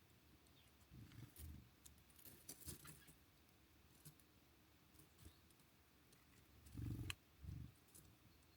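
Faint sharp taps and clicks with a few soft low thumps, as small birds land and peck at a bird feeder. The strongest thump and click come near the end.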